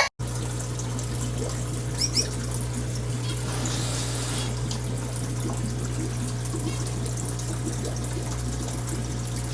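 Steady trickling, running water over a constant low hum. Two short high chirps from the finches come about two seconds in.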